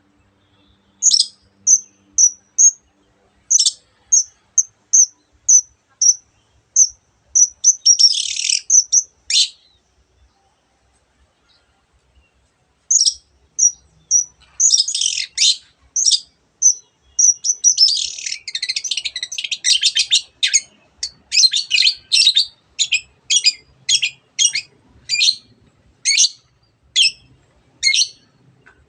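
Long-tailed shrike singing: a string of short, sharp, high notes about two a second, a pause of about three seconds, then a burst of harsher, rapid chattering before the evenly spaced notes return.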